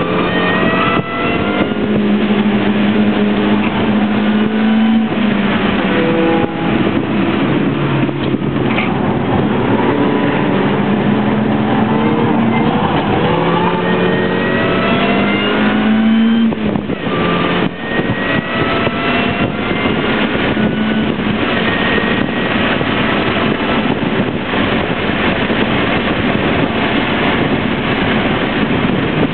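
A first-generation MINI Cooper's four-cylinder engine, heard from inside the cabin, driven hard with its pitch climbing for long pulls. The pitch drops sharply about five seconds in and again just past the middle, then climbs again, over steady road noise.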